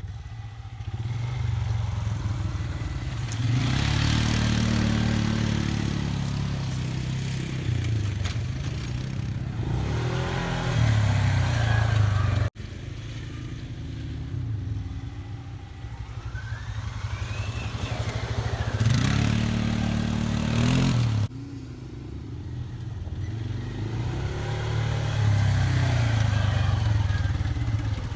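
Off-road vehicle engines, ATVs and a dirt bike, on trail riding: engines revving up and dropping back several times as the throttle is worked. The sound breaks off abruptly twice.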